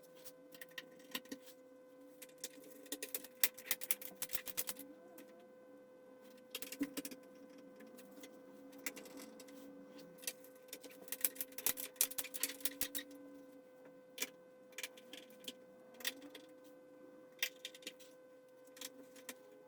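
Irregular clicks, taps and rattles of small hard parts being handled, coming in clusters, over a faint steady whine.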